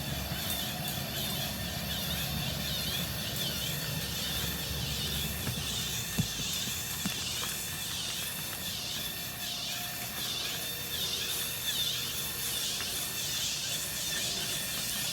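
Animated flying bat Halloween prop running: a low motor hum with a high squeak repeating about twice a second, plus a couple of brief clicks near the middle.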